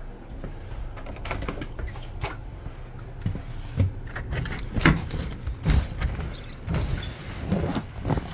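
Low wind rumble buffeting the microphone, with irregular knocks and rattles; the loudest knock comes about five seconds in.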